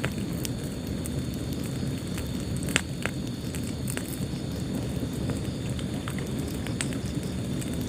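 Wood fire crackling in a fireplace: a steady low rumble of burning with irregular sharp pops and snaps, the loudest about three seconds in.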